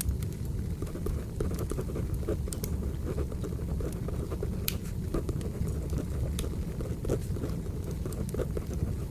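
Crackling firewood fire: a steady low rumble of burning with scattered sharp pops and crackles, several a second, with soft pencil-on-paper writing sounds layered over it.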